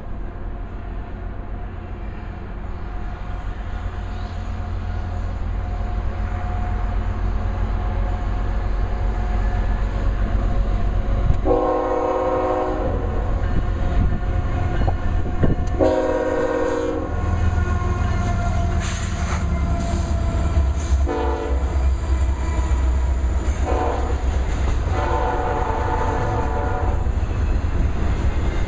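Diesel freight locomotives led by a GE C45ACCTE approaching with a deep engine rumble that grows louder, sounding the horn in several chord blasts: two long ones, short ones, then a long one near the end.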